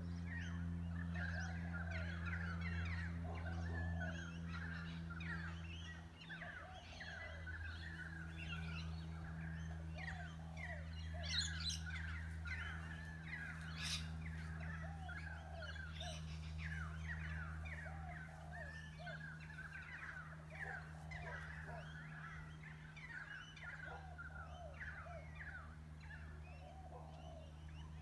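A dense chorus of many distant birds calling over one another, quick sweeping notes of an unidentified kind, with a couple of louder, sharper calls near the middle. A steady low hum runs underneath.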